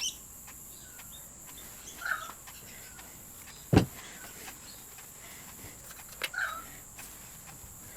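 Light handling sounds at the bench as safety glasses and a polish bottle are picked up and set down: a few soft clicks and taps, with one sharper knock about four seconds in. A steady faint high-pitched tone lies underneath.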